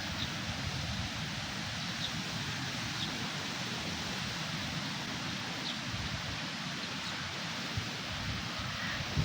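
Wind rushing steadily through trees and foliage ahead of a thunderstorm, with a few faint bird chirps.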